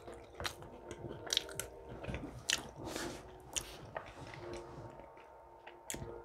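Close-miked chewing and biting of a mouthful of breakfast food: irregular wet clicks and smacks of the mouth.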